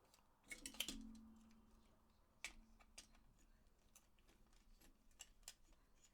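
Faint clicks and light taps of plastic DualShock 4 controller parts being handled and fitted together, a small cluster about half a second to a second in, then scattered single ticks.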